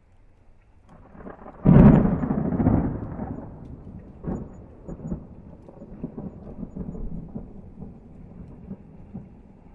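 A thunderclap: a sudden loud crack about two seconds in, then a long rolling rumble with a few smaller peals that slowly dies away.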